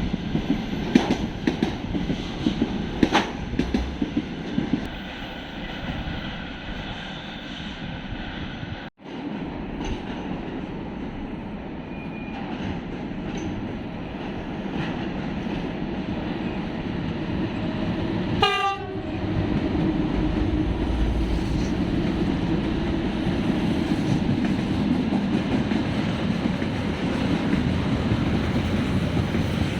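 A train rolling past, its wheels knocking over rail joints in the first few seconds. The sound drops out for an instant about nine seconds in, then settles into a steady, louder rumble of the train going by.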